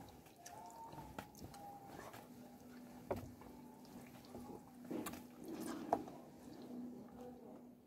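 Close-miked eating sounds of rice and sauce eaten by hand: soft wet chewing and mouth clicks, with sharper clicks about 3 s and 6 s in. A faint steady hum runs underneath from about 2 s in.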